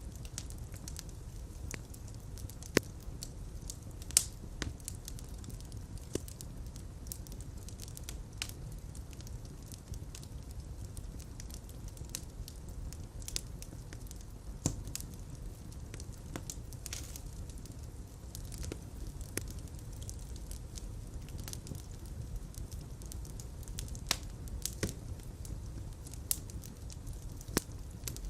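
Fireplace fire crackling, with irregular sharp pops over a steady low rumble of flame.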